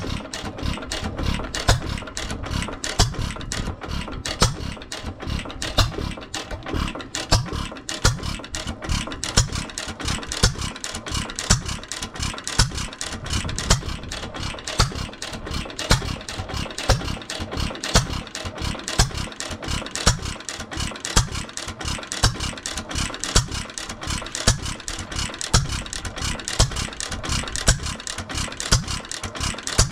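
Antique single-cylinder hit-and-miss gas engine running, with a loud firing stroke every second or two and a quick, steady mechanical clatter between them.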